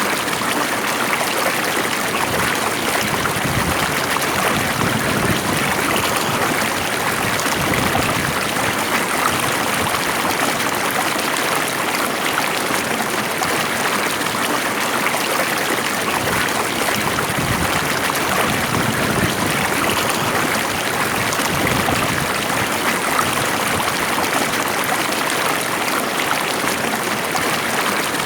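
Water flowing steadily in a stream, a continuous even rush with no breaks.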